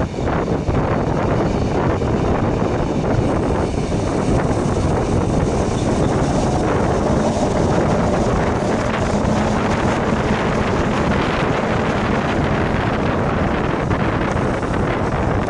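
Steady wind noise buffeting the microphone held out of the open window of the moving Bernina Express, over the train's steady running noise on the rails.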